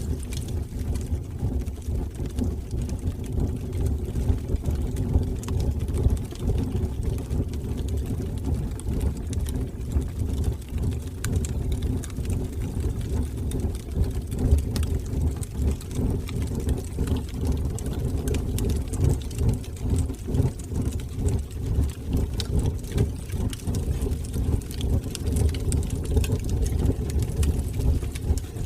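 Fire burning in a fireplace: a steady, fluttering low rumble of the flames with faint scattered crackles.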